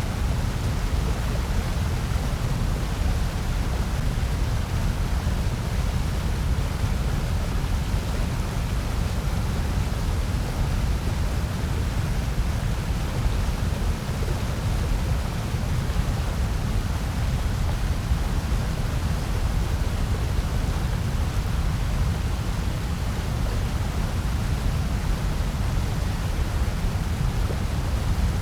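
Steady synthetic noise, even and unchanging, heaviest in a deep rumble with a softer hiss above.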